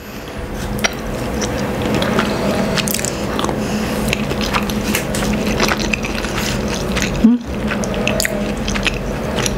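Close-miked wet chewing of a mouthful of rice and canned sardines in tomato sauce, with frequent lip smacks and mouth clicks.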